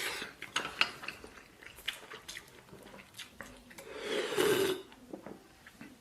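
Eating from a bowl of spicy fire noodles: scattered light clicks of a utensil against the bowl, with chewing, and a longer breathy slurp or sharp intake of breath about four seconds in.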